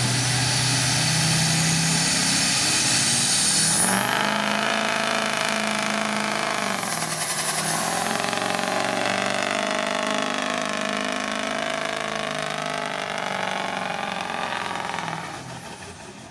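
Ford diesel pickup truck's engine running hard at full throttle while pulling the sled down the track. About four seconds in, a high whine rises and then holds steady. The engine sound fades near the end.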